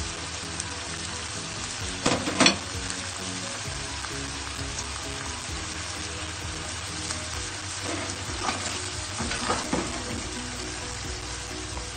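Cabbage and beef stir-fry sizzling in a frying pan while cheese slices are laid on top, a steady frying hiss. A couple of sharp knocks about two seconds in, and a few lighter knocks later on.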